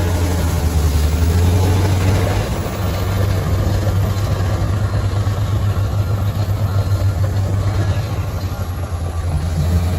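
Bulldozer's diesel engine running steadily with a deep hum, easing off slightly about two and a half seconds in and again shortly before the end.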